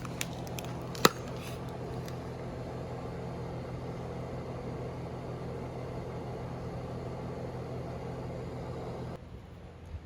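Steady low electrical hum from mains-powered equipment, with a sharp click about a second in; the hum cuts off suddenly near the end.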